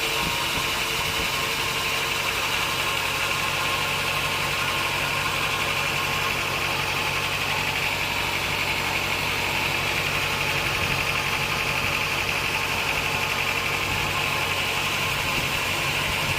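Sawmill running steadily, a low motor hum under a steady higher-pitched whine from the saw.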